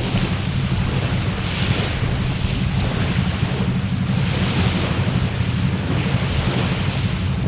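Wood fire burning in a Coleman Fire Disk fire pan: a steady rushing hiss of flames over a low rumble, swelling twice. A steady high-pitched whine runs over it.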